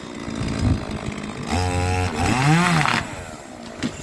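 Interskol PTsB-180 petrol chainsaw running roughly at idle, then revved up and back down twice in quick succession around the middle, the engine note rising and falling each time, before dropping back to idle; a short sharp click near the end.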